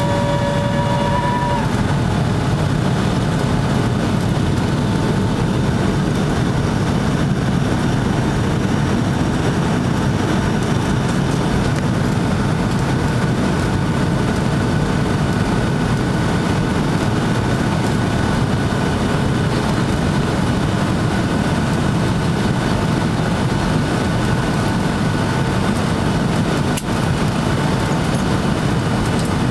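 Steady, loud drone of airflow and turbofan engines in a Boeing 757-200 in flight on approach, a low rushing rumble with faint steady engine tones above it.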